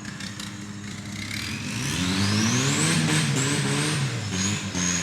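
Hood-stacked Fox-body Mustang's engine revved hard while drifting: the engine note climbs over about two seconds with a high whine rising alongside it, holds near the top, then eases off near the end.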